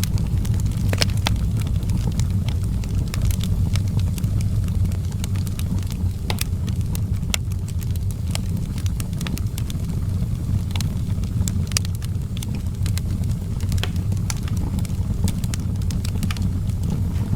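Wood fire in an outdoor fireplace crackling, with irregular sharp pops and snaps over a steady low rumble.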